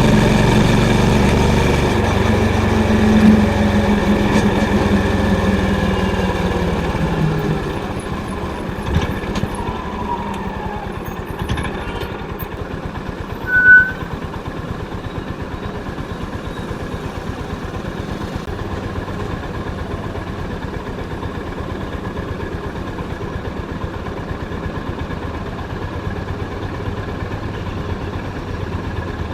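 Honda CB350's single-cylinder engine with its exhaust note: the revs fall off over the first several seconds and it settles into a steady, even low-revving thump, likely idling. A brief high beep sounds about fourteen seconds in.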